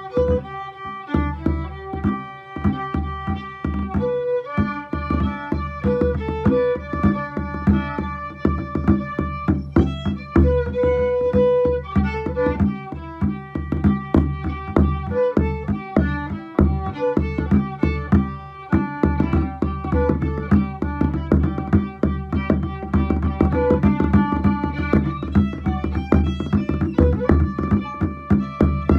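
Instrumental break of a folk tune: a fiddle plays a quick melody over a steady bodhrán beat.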